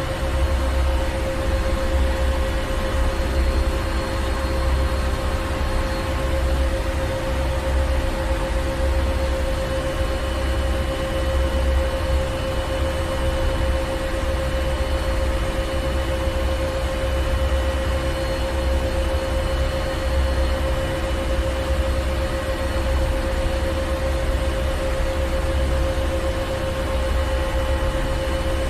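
Ship's engine room machinery running steadily: a low rumble under an even roar, with a strong steady mid-pitched hum and fainter higher whines.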